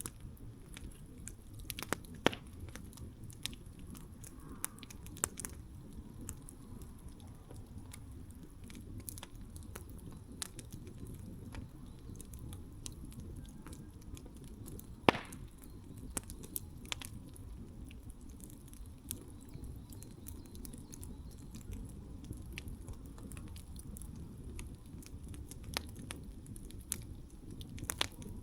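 Wood campfire crackling: scattered sharp pops and snaps over a low steady rumble, with one louder pop about halfway through.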